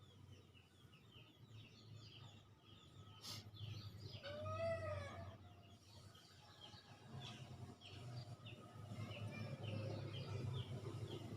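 Small birds chirping over and over, with a single cat meow, rising then falling, about four and a half seconds in.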